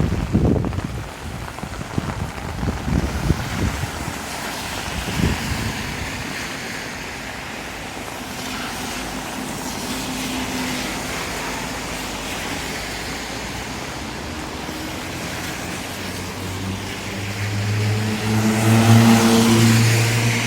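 Wind buffeting the microphone for the first few seconds over a steady hiss of a wet street. Near the end a car approaches, its engine hum rising and loudest just before the close.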